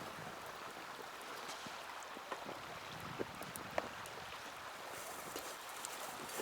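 Small wood fire burning with a steady hiss and a few sharp crackles and pops, the loudest just under four seconds in.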